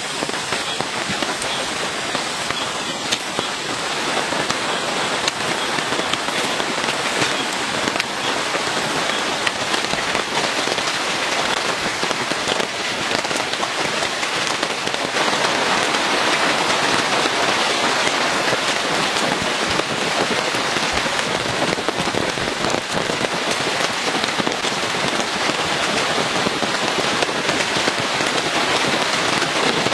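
Heavy rain falling steadily, with a dense crackle of individual drops hitting surfaces. It grows a little louder about halfway through.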